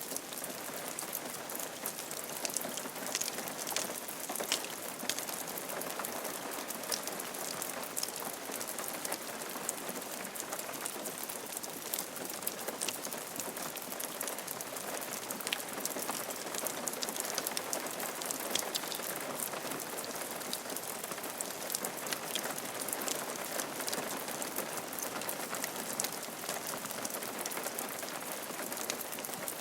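Steady rain falling on a roof, an even hiss dotted with many sharp drop taps.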